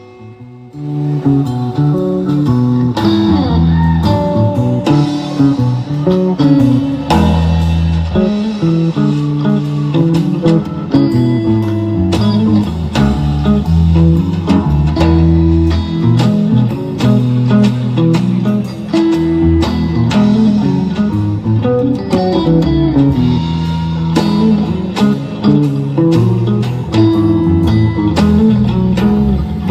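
Live band playing an instrumental passage: electric guitar notes over a bass guitar line, starting up about a second in.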